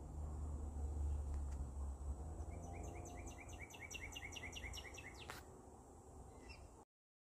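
A songbird sings a fast trill of about a dozen repeated chirps, roughly five a second, over a low rumble that fades after the first couple of seconds. A single sharp click comes near the end, then the sound cuts off.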